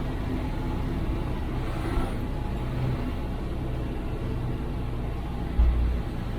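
IFA L60 truck's diesel engine running steadily, heard from inside the cab, with a heavy low thump near the end.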